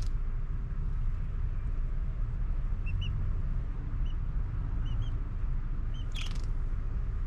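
Short, high bird chirps, six in all, over a steady low rumble, with a brief scratchy burst at the start and again about six seconds in.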